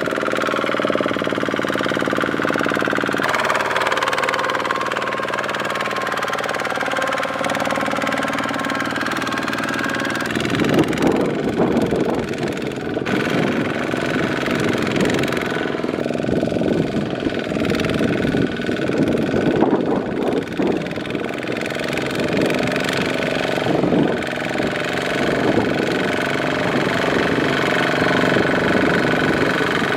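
Single-cylinder diesel engine of a Kubota walk-behind mini tractor running steadily at first. From about ten seconds in it surges and falls unevenly, labouring under load in deep mud.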